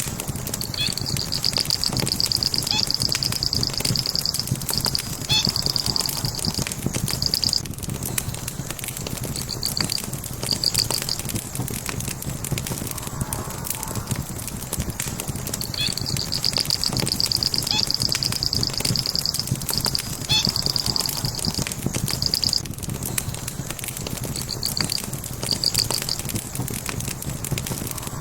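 Wood fire crackling and popping over a steady low rush. A high, rapid chirping trill comes in a few short runs, and the same run of trills repeats about halfway through.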